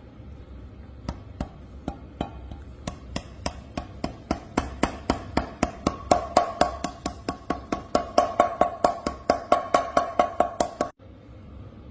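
Hammer blows on metal, about four a second, driving a bearing in a motorcycle's rear wheel hub. From about six seconds in, each blow rings with a metallic tone, and the hammering stops abruptly near the end.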